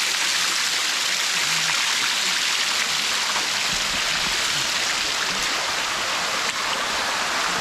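Water of the Sticky Waterfall running and splashing steadily down its rock face, an even rushing sound.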